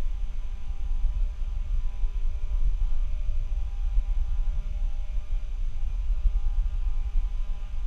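Noise from a faulty microphone: a constant low rumble that churns unevenly, with a steady electrical hum and a few faint high whining tones over a light hiss.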